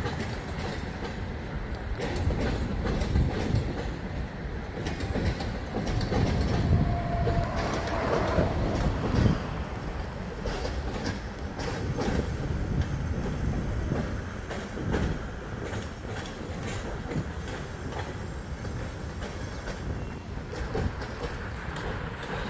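Freight train cars rolling slowly through a rail yard: a steady rumble with repeated wheel clacks over rail joints. A brief wheel squeal comes about seven seconds in.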